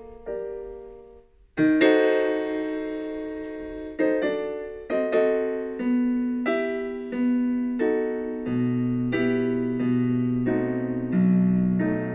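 Background piano music: struck chords and a slow melody, with sustained bass notes joining near the end.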